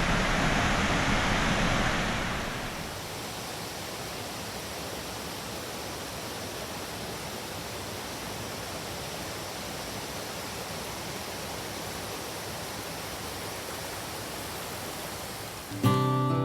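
Steady rushing of a waterfall and river, an even hiss of falling water that drops noticeably in level a couple of seconds in and then holds constant. Acoustic guitar music comes in near the end.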